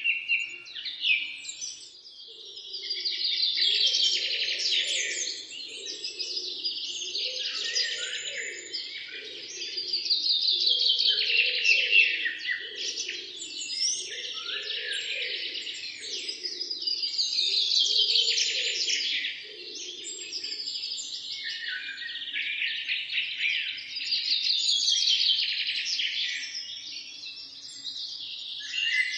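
A chorus of many small birds chirping and twittering together, swelling louder and fading back about every seven seconds, with a fainter low pulsing sound underneath.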